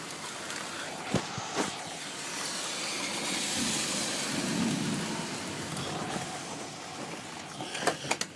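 Heavy rain falling steadily, swelling in the middle, with a few sharp clicks about a second in and near the end.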